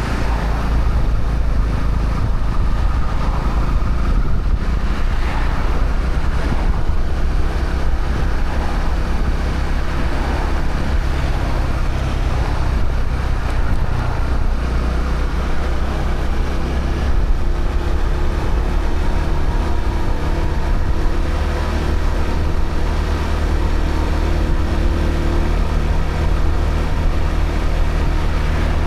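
Honda CB125R's single-cylinder 125 cc engine, with the stock exhaust, running steadily as the motorcycle is ridden, its note shifting slightly about halfway through, over a rush of wind and road noise.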